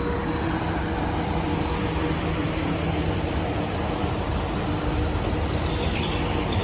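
Electric train running past on the line, a steady rumble with a faint steady whine, and a few light clicks near the end.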